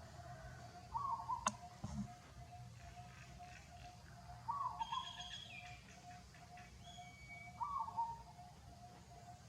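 Birds calling: a short call repeats about every three seconds over a steady run of softer notes about twice a second. A sharp click comes about a second and a half in.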